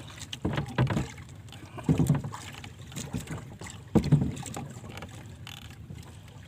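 Water lapping against a small fishing boat's hull, with irregular low knocks and thumps, the loudest about two and four seconds in.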